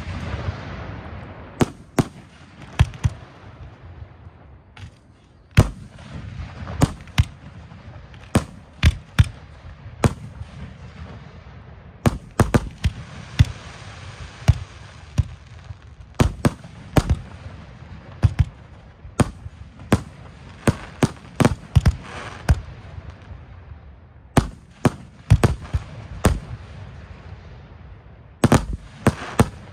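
Chain-fired 3-inch aerial firework shells launching and bursting one after another, sharp bangs at uneven spacing, often less than a second apart, with crackling between them.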